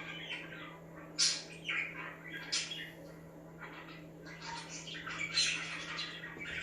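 Budgies (budgerigars) chirping and squawking in short, scratchy calls, busier in the second half.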